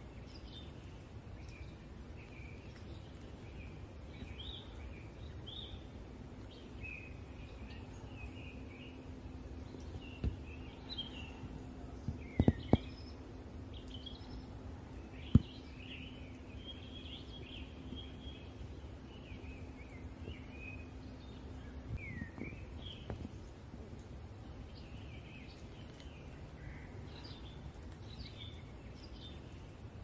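Small songbirds chirping and calling, short high notes scattered throughout over a low rumble. A faint steady hum comes in a few seconds in and stops about two-thirds through, and a handful of sharp clicks sound near the middle, the loudest about halfway.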